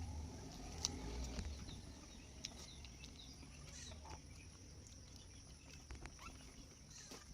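Faint outdoor ambience: a steady high-pitched insect drone with scattered small clicks and a low rumble in the first two seconds.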